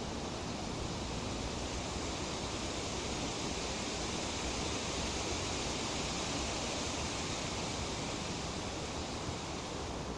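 Tree leaves rustling in a light breeze, a steady hiss that swells slightly in the middle.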